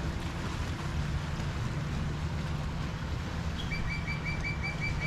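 Steady low rumble of surf and wind at the shore. Near the end, a bird gives a quick run of about seven short, high, identical notes.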